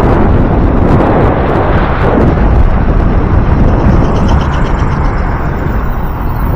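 Wind buffeting the microphone of a camera riding on a moving e-bike: a loud, steady rumble.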